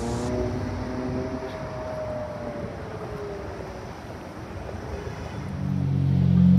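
A McLaren 720S Spider's twin-turbo V8 pulls away, its engine note rising and then slowly falling and fading over the first few seconds, over street traffic noise. About five and a half seconds in, a louder, deep, steady engine rumble comes in: a Lamborghini Diablo's V12.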